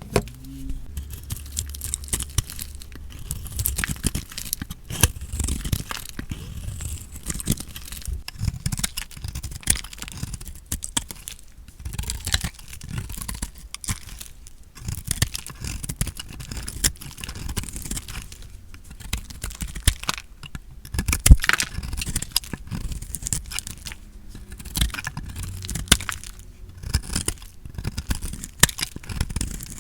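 A knife cutting through bars of dry soap: crisp crunching, crackling strokes one after another with short pauses between them, the sharpest crack about two-thirds of the way through.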